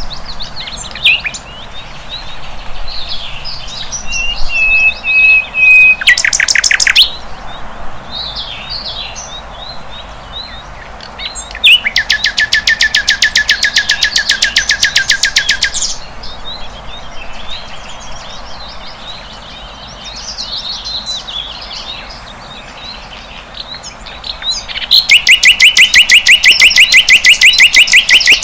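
A sikatan londo flycatcher singing: scattered chirps and a short held whistle, then two long, rapid, evenly pulsed trills, one about twelve seconds in lasting some four seconds and another starting near the end.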